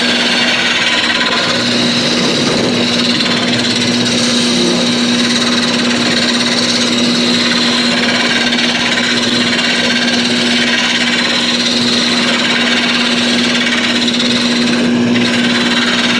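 Wood lathe running with a turning tool cutting into the spinning wood: a steady motor hum under a continuous hissing, scraping cut that lets up briefly near the end.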